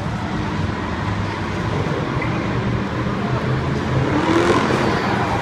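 Truck engine running with a steady low note, getting a little louder toward the end.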